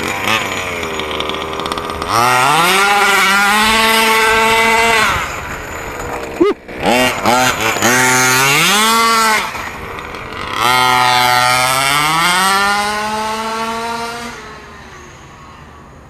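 Two-stroke petrol engine of an HPI Baja 5B 1/5-scale RC buggy, an OBR engine, taken to full throttle three times: each time the pitch climbs, holds high for a few seconds, then drops off. Between the first and second runs there are a few short throttle blips, and the engine fades away near the end.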